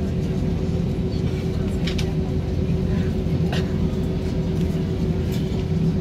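Cabin noise of an Airbus A320-232 with its IAE V2500 engines running on the ground: a steady low rumble with a steady hum, and a few light clicks or rattles from the cabin about two, three and a half and five seconds in.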